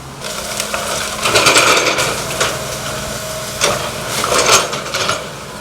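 A wooden frame house being torn down by machine: repeated cracking and splintering of wood and clattering debris, over a steady engine hum.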